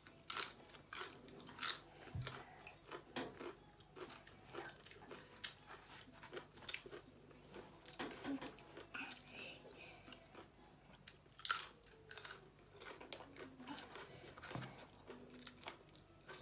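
A person eating close to the microphone: wet chewing with irregular crisp crunches as she bites into and chews a raw green vegetable, the loudest crunches about a second and a half in and about two-thirds of the way through.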